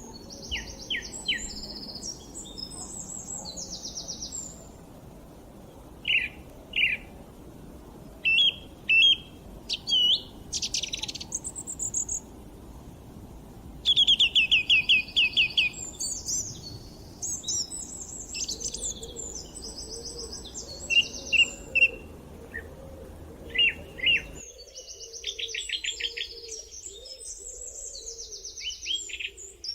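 Several songbirds singing and chirping together: many short trills and whistled phrases, with a quick run of loud repeated notes about halfway through. A low background rumble cuts out abruptly near the end.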